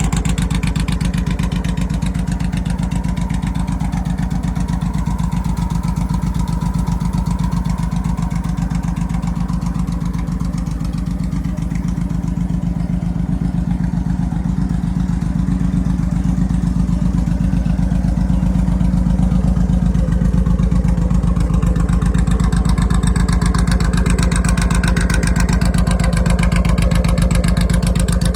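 Custom chopper's big V-twin engine idling with a steady pulsing exhaust, running a little louder in the second half.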